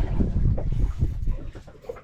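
Wind buffeting the microphone on an open boat: a loud, uneven low rumble that eases off near the end.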